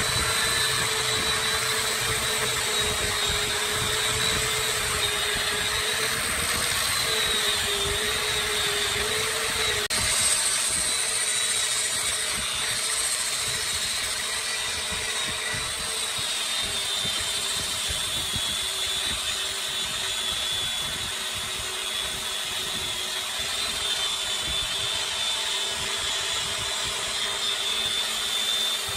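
Woodworking lathe running steadily, a constant motor whine over a hiss of tool work on the spinning wood, its pitch dropping slightly about ten seconds in.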